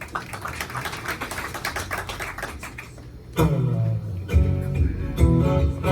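Live band starting a song: a fast, light ticking rhythm for about three seconds, then guitar and bass notes come in loud about three and a half seconds in.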